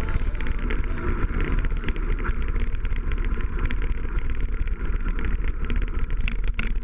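Honda CRF80F dirt bike's small four-stroke single-cylinder engine running under way, with heavy wind buffeting the microphone.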